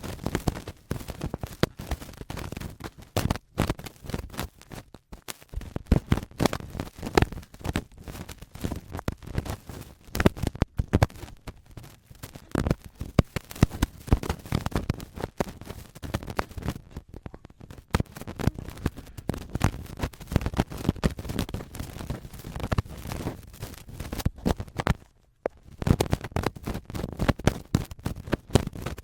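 Adhesive cotton swab rubbed and scraped against the microphone in ear-cleaning ASMR, giving a dense, irregular crackling, grinding scrape, with a brief pause about 25 seconds in.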